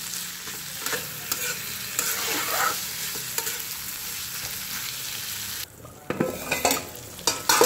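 Pieces of mutton fat frying in an oily spiced masala in a pan: a steady sizzle with scattered small crackles. About two-thirds of the way in the sizzle cuts off suddenly, followed by a few knocks of utensils against the pan.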